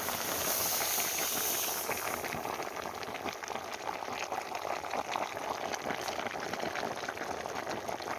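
Meat and potatoes bubbling steadily in a kazan, a continuous crackling hiss of boiling liquid.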